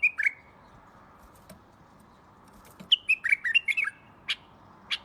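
Bulbul calling: a couple of short chirps at the start, then a quick run of falling notes about three seconds in, over a faint steady hiss.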